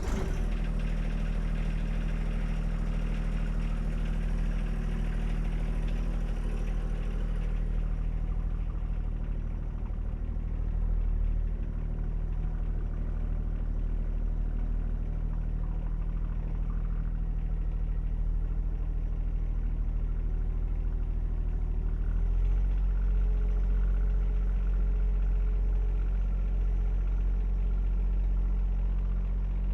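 John Deere 1025R compact tractor's three-cylinder diesel engine running steadily, stepping up to a slightly higher, louder speed about two-thirds of the way through.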